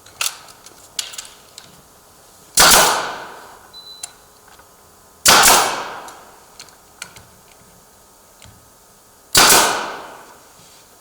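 Pneumatic nail gun firing three times, each a sharp bang with a hiss that fades over about a second, as it drives nails into quarter-round molding. A few light clicks and knocks come shortly before the first shot.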